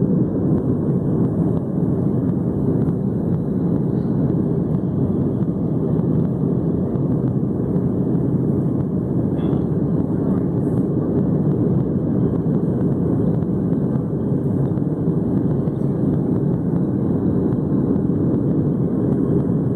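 Steady, even cabin noise inside a Boeing 757 airliner: the jet engines and rushing airflow as heard from a passenger seat.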